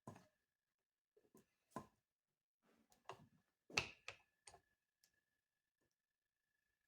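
Near silence broken by a few faint, scattered clicks and light taps of small parts being handled, the loudest about four seconds in, over a faint steady high-pitched whine.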